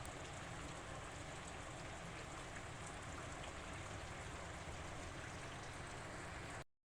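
Steady rain falling, an even patter of drops on surfaces, with faint scattered drip ticks; it cuts off abruptly near the end.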